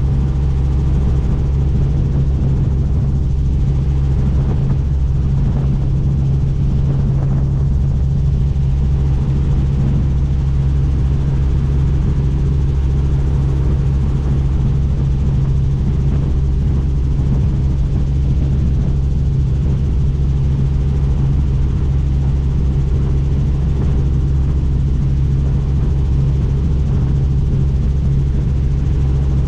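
Helicopter in flight heard from on board: a loud, steady drone of rotor and engine that holds unchanged throughout.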